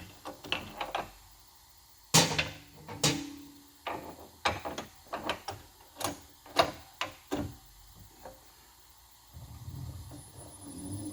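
Sharp metallic clicks and clunks of tooling being handled and fitted on a valve-guide machining machine, as the core drill is swapped for a reamer. A couple of seconds before the end, the machine's spindle motor starts with a low hum that builds.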